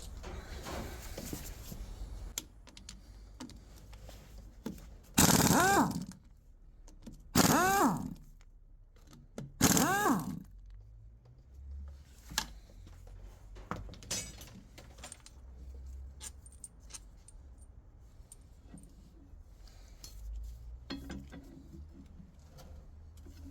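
Metal clinks and knocks of transmission parts being handled on a workbench, with three loud sounds about two seconds apart, each falling in pitch over about a second.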